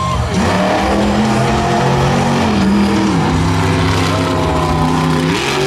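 Monster truck's supercharged V8 engine running hard under throttle. Its pitch holds steady, drops twice in steps, then rises again near the end.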